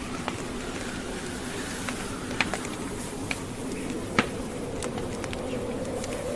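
Wood fire burning with irregular sharp crackles and pops, a louder pop about four seconds in, over a steady low rumble.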